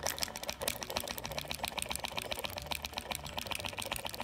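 Fine-tip Pilot silver paint marker being pumped rapidly against the base of a plastic paint-mixing cup to draw ink out of the tip, giving a quick, even run of light clicks.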